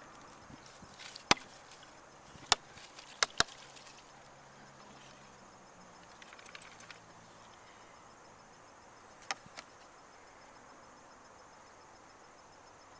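Sharp knocks: four over the first few seconds and two more close together about nine seconds in, over a faint steady hiss.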